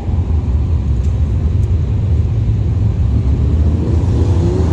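A steady low rumble, like vehicles running.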